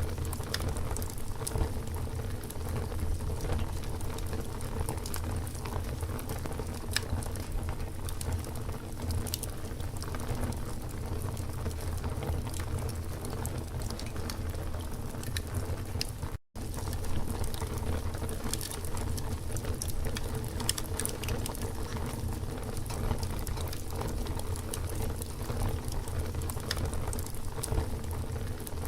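Campfire burning, with irregular crackles and pops of burning wood over a steady low rumble of flame. The sound cuts out for an instant a little past halfway through.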